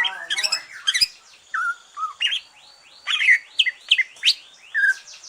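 Greater green leafbird (cucak ijo) singing: a fast, varied run of chirps and whistled notes, with a string of quick downward-sweeping notes in the middle.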